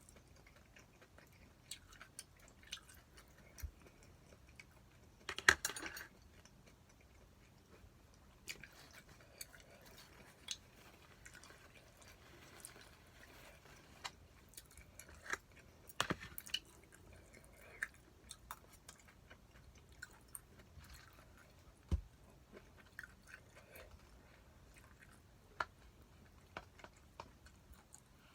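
A person quietly eating spicy stir-fried pork (jeyuk bokkeum): soft chewing with scattered small clicks and taps. There is a louder, brief rustle or clatter about five and a half seconds in, and sharper taps around sixteen and twenty-two seconds in.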